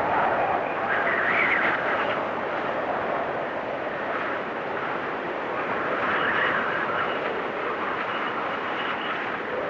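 Blizzard wind blowing in gusts, a steady rush that swells and whistles higher about a second in and again around six seconds.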